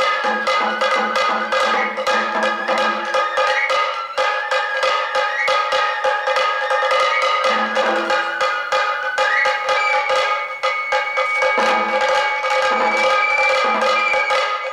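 Sato kagura hayashi: a high bamboo flute plays over fast, steady taiko drumming, with crisp stick strokes several times a second. Near the end the flute holds one long high note.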